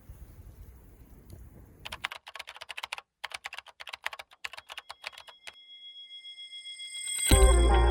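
Computer keyboard typing: a fast run of clicks lasting about three and a half seconds, with a brief pause partway through. It is followed by a swelling high tone, and music comes in near the end.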